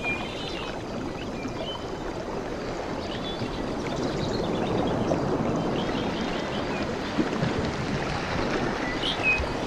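Surf washing on a tropical beach, a steady rush that swells gently midway and eases again. Small birds chirp briefly a few times, near the start and again near the end.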